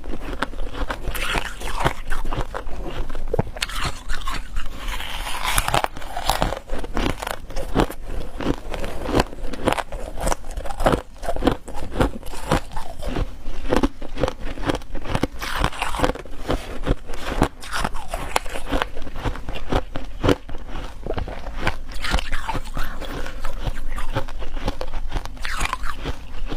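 Ice being bitten and chewed close to the microphone: a dense run of sharp cracks and crunches with a few louder snaps, going on without pause.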